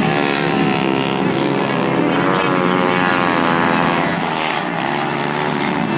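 Several 110 cc racing motorcycle engines running hard together, their overlapping pitches rising and falling as the bikes accelerate and shift gears.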